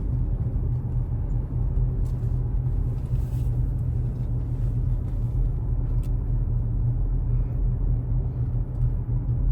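Car running: a steady low rumble throughout, with a few faint ticks.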